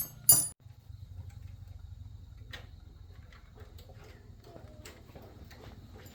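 A sharp metallic clank with a brief ringing just after the start, then scattered light clicks and taps over a low steady hum.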